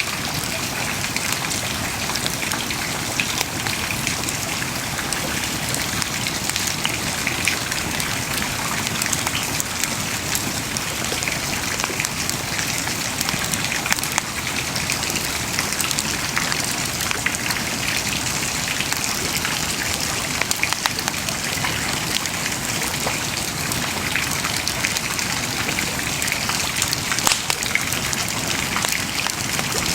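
Wood bonfire burning steadily: a continuous hiss and rustle of flames with frequent small crackles and sharp pops from the burning wood.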